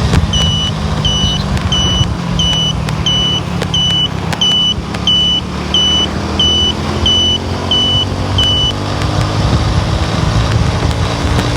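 Steady low rumble of a car driving, heard from inside the cabin. Over it, a short high electronic beep repeats about a dozen times at an even pace, roughly one and a half a second, then stops about three-quarters of the way through: a dashboard warning chime.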